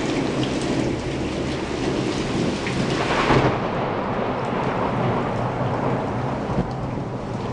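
Heavy rain pouring steadily with thunder rumbling, swelling to a louder peak about three seconds in.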